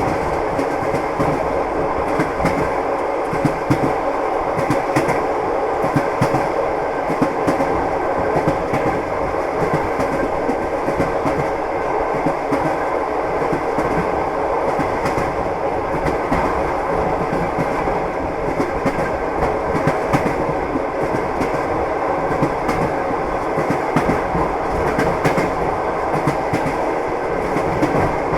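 Train running steadily along the track: wheels clattering over the rail joints with a continuous rumble.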